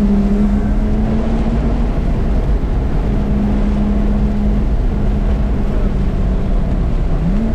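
Car engine running at steady revs under a haze of road noise, with a brief rise in pitch near the end.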